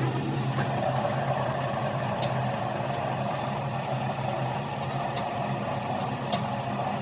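A heavy vehicle's engine idling steadily, with a few faint sharp clicks over it.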